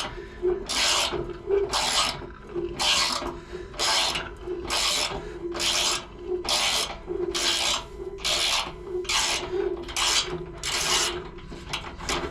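Hand socket ratchet being swung back and forth on a tight bolt, rasping on each return stroke at about one and a half strokes a second, with roughly twenty strokes in a row.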